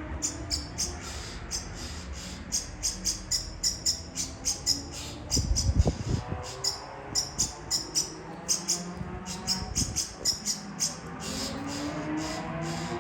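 Bird chirping: short high-pitched chirps repeating several times a second. A brief low thump comes about halfway through and is the loudest sound.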